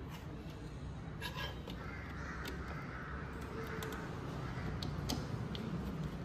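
Birds calling in the background, with a few light clicks scattered through and a steady low hum underneath.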